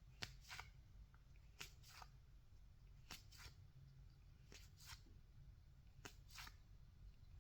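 Faint handling of baseball trading cards being flipped through one by one: a pair of quick card slides or flicks about every second and a half, five times.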